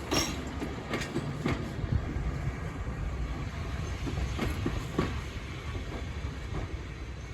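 Train hauled by Class 37 diesel locomotives running along: a steady low rumble with irregular sharp clicks of the wheels passing over rail joints.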